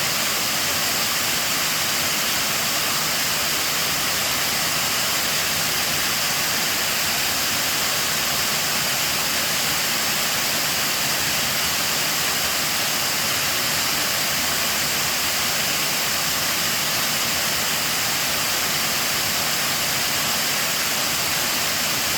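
Water spilling over an old mill dam, a steady unbroken rushing.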